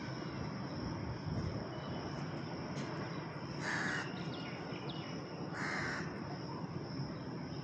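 Crow cawing twice, two short harsh calls about two seconds apart, over a steady high-pitched hiss in the background.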